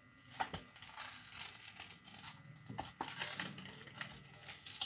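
Pizza cutter wheel rolling through a crisp toasted sandwich: faint crunching and crackling of the toast crust, with a few sharper clicks.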